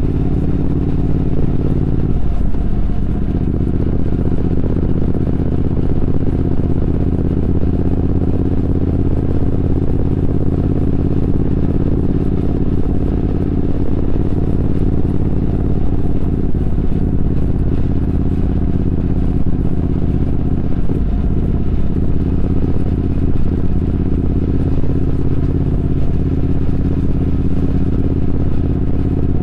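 Triumph Speed Twin 1200's parallel-twin engine running steadily under way, heard from the bike itself, with brief breaks in the engine note about two seconds in and twice more later.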